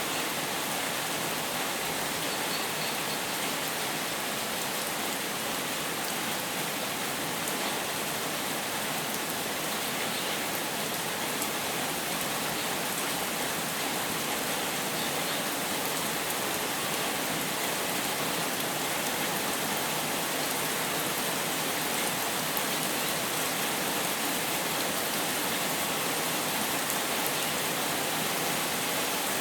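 Steady rain, an even, unbroken hiss of falling rain and drops hitting surfaces.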